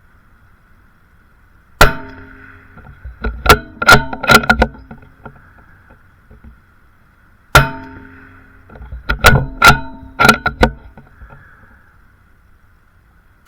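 Rimfire rifle shots, about six seconds apart, with a third right at the end. After each of the first two comes a quick run of four metallic clicks and clacks, typical of working the rifle's bolt to reload.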